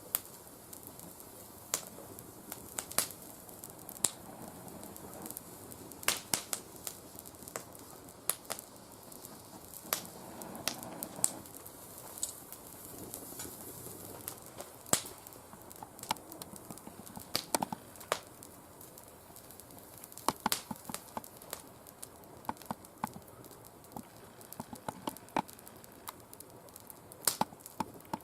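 Oak twigs burning in a fire pit, crackling with sharp, irregular pops over a low hiss; the oak is not fully seasoned.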